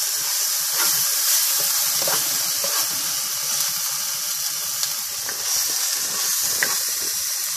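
Mealworms and chopped vegetables sizzling in a hot wok as they are stir-fried, a steady hiss with a few light knocks of the spatula.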